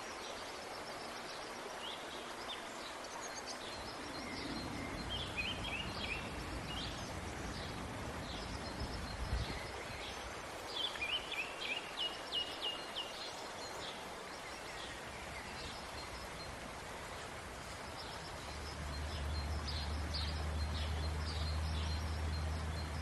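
Songbirds chirping in short repeated calls over a steady outdoor background hiss. A low steady hum comes in near the end.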